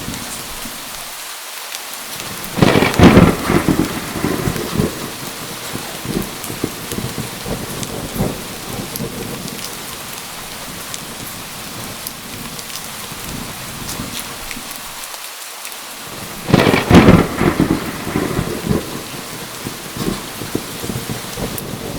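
Steady rain on a surface, with two loud claps of thunder, one about three seconds in and one about seventeen seconds in, each crackling for about two seconds before fading back into the rain.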